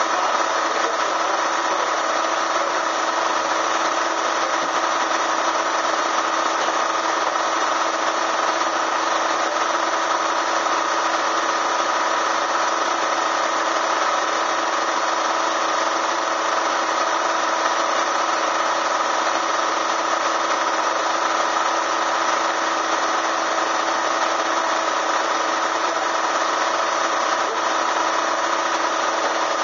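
Bee vacuum's electric motor running steadily, a constant whine with a rushing of air and no change in speed.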